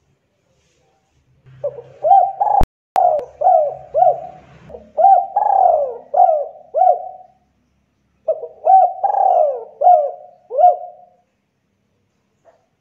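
Spotted dove (tekukur) cooing in two bursts of repeated notes, the first starting under two seconds in and the second after a short pause, with a sharp click near the start of the first burst.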